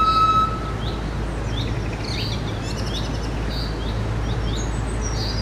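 Small birds chirping repeatedly in short, quick calls over a steady background noise with a low rumble. A held music note ends about half a second in.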